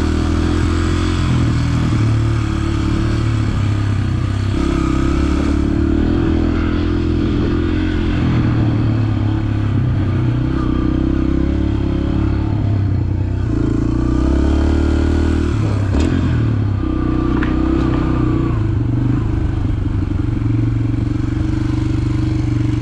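Dirt bike engine running while being ridden, its pitch stepping up and down every few seconds with throttle and gear changes, with a sharp clack about two-thirds of the way through.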